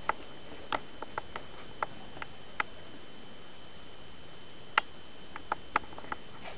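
A series of short, sharp clicks and taps at irregular intervals, about fourteen in all with a pause of about two seconds in the middle, over a steady faint hiss.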